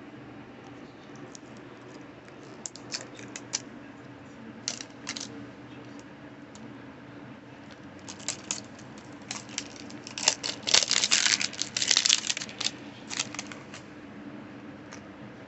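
Small hard plastic toy pieces clicking and knocking together while plastic packaging crinkles and tears. The sounds are scattered at first, then a dense flurry of clicks and crinkling comes about ten seconds in.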